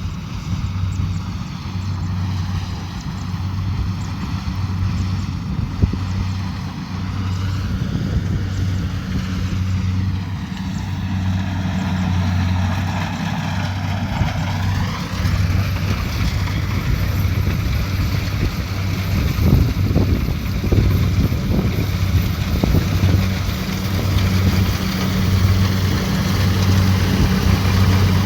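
Kubota DC70 Pro combine harvester's diesel engine and harvesting machinery running steadily, with a pulsing low hum that grows louder in the second half.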